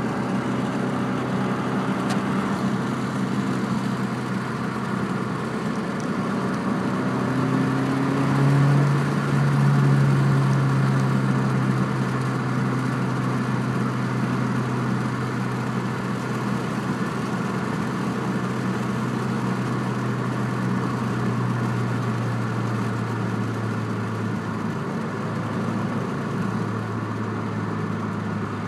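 Exhaust note of a 2006 Subaru Impreza's flat-four engine through an aftermarket TurboXS exhaust, running steadily. The pitch and loudness rise briefly about eight seconds in, then settle back.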